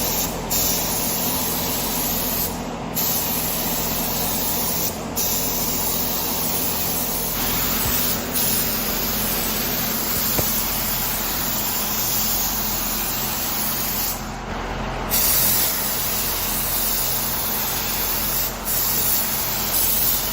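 Paint spray gun hissing steadily as a coat of paint goes onto a helicopter. The hiss stops briefly several times between passes, when the trigger is let off.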